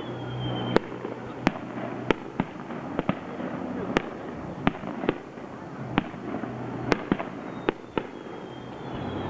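Aerial fireworks bursting: a rapid, irregular string of sharp bangs, roughly one or two a second. A high falling whistle sounds near the start and again near the end.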